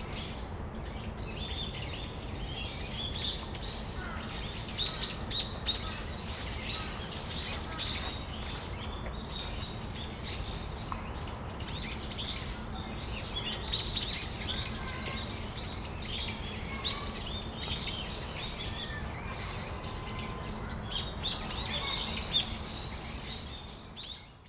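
Brown-eared bulbuls calling: many sharp, short chirps and calls that come thick and fast, over a steady low background rumble. The sound fades out near the end.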